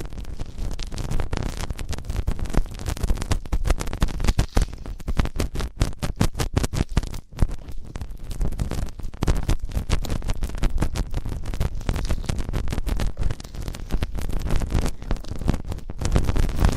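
ASMR ear cleaning: something rubbing and scratching right against a microphone's ear, heard as a dense, uneven run of crackles over a heavy low rumble.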